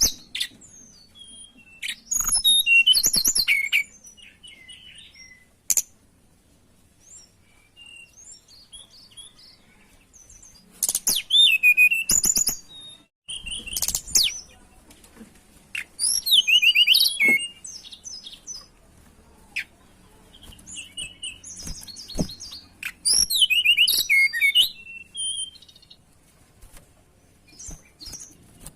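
Tledekan gunung songbird singing in short bursts of rapid, high, twittering and sliding notes, about five phrases a few seconds apart, with soft scattered chips between them.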